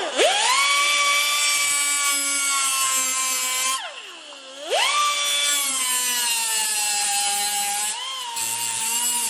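High-speed grinder working metal: a steady whine whose pitch dips sharply as the tool is pressed in, near the start and again about four seconds in, then recovers. It winds down at the end.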